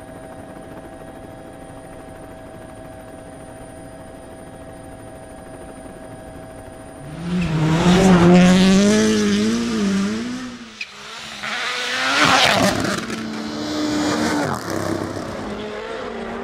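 Rally car on a snow and ice stage: a faint steady hum, then about seven seconds in the car arrives loud, its engine note rising and falling as it revs through the gears, with a rushing hiss of tyres. The engine cuts briefly near eleven seconds before a second loud surge and a steadier engine note near the end.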